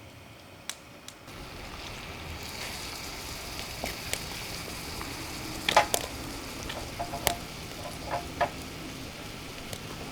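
Food sizzling in a hot pan, a steady hiss that starts about a second in. It is broken by a few sharp clicks and knocks.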